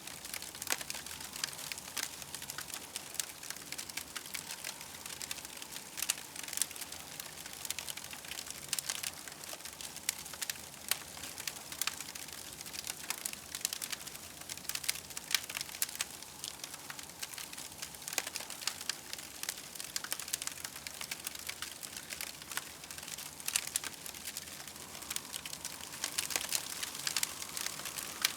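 Campfire crackling: a dense, steady run of small pops and snaps over a soft hiss.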